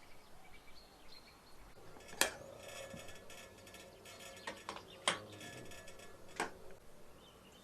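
Metal utensils clinking against dishes: three sharp clinks and a few lighter taps, the first followed by a brief metallic ring.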